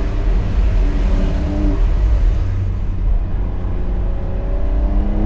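Porsche 992.2 Carrera's twin-turbo flat-six engine running with a steady low rumble, easing off in the middle, then rising in pitch as it starts to accelerate near the end.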